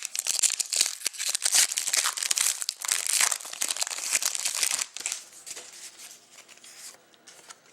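Plastic wrapper of a hockey card pack being crinkled and torn open, a dense crackling rustle for about five seconds, then a few lighter rustles and clicks as the cards are handled.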